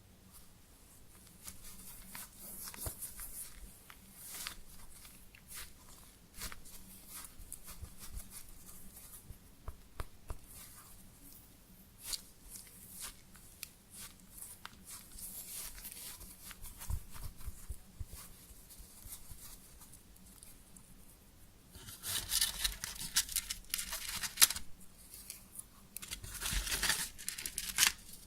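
Close-up crinkling and tearing handling sounds: a dense crackle of small clicks and rustles, louder in two bursts near the end.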